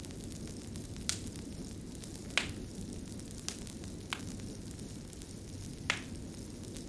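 Fire crackling: a steady low rush broken by about five sharp, separate pops and snaps a second or so apart.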